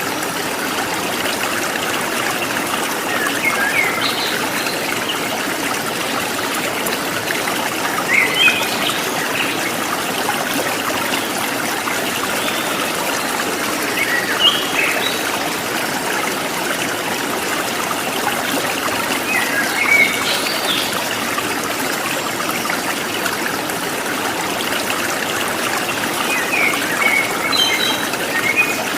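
Running water trickling and babbling steadily, with short bird chirps breaking in about every five or six seconds.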